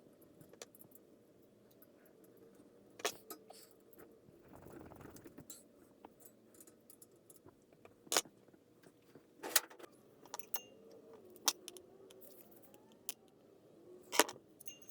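Small metal parts and tools clinking and tapping against each other in scattered, sharp clicks while the antique Diehl fan is being reassembled.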